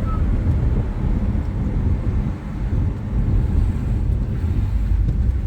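Steady low vehicle rumble, dipping briefly about two and a half seconds in.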